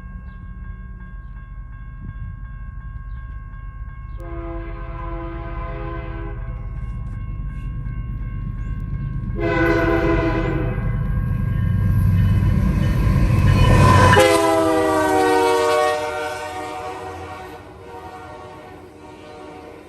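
Canadian Pacific diesel locomotive sounding its horn while approaching and passing: a blast of about two seconds, a short one, then a long final blast that drops in pitch as the locomotive goes by, the pattern of a grade-crossing signal. Under it the engine rumble grows louder and then falls away sharply as the locomotive passes.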